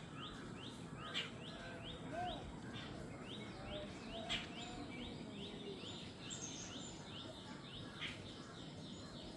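Jungle bird chorus: one bird repeats short falling notes about three times a second, with other birds chirping over a steady background hiss. Three sharp ticks stand out, the loudest about four seconds in.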